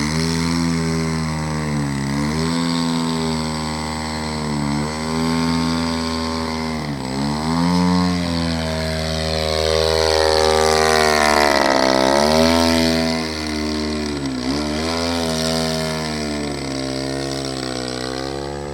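120cc gasoline engine of a radio-control airplane running, its pitch dropping briefly and climbing back several times as the throttle and flight change, loudest about ten to thirteen seconds in.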